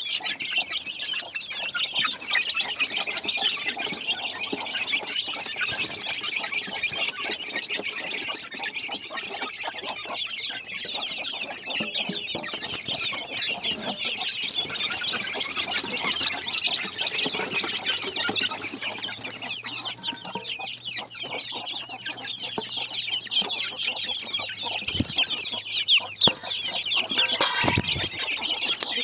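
A flock of chickens clucking, a dense, continuous chatter of many overlapping calls, with one louder call near the end.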